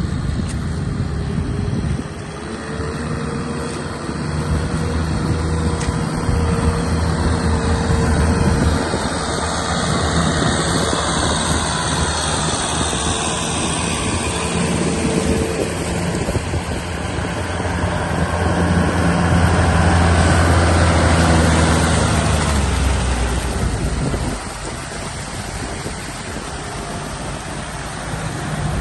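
Tractor engine running steadily under load, its loudness swelling and easing: louder about a third of the way in and again past two-thirds, then dropping back near the end.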